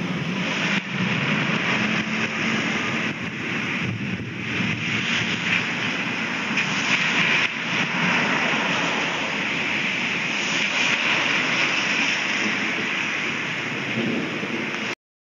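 Steady rain pouring down, a dense even hiss with no break, cutting off suddenly near the end.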